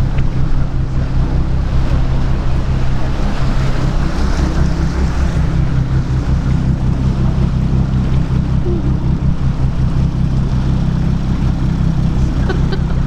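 Canal boat's engine running steadily under way, a constant low drone with wash noise over it.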